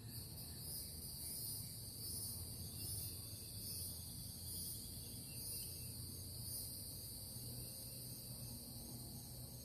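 Chorus of insects, crickets or katydids, trilling steadily at a high pitch with a slow, even pulsing, over a low steady background hum.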